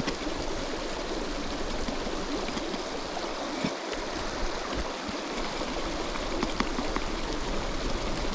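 A river running steadily over its stony bed, with a few faint light clicks.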